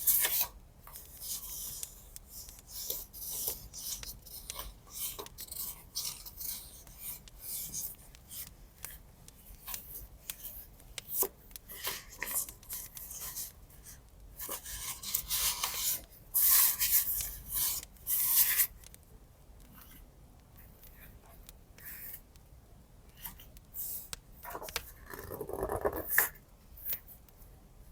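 Paper and washi tape being worked by hand in a journal: a run of short rubbing and scraping strokes on paper, the loudest cluster a little past halfway, with a duller, fuller rub near the end.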